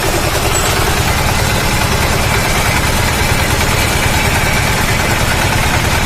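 Engine of a Jakro 200 hydraulic drilling rig running steadily at a constant speed, with a faint high whine over it for a few seconds.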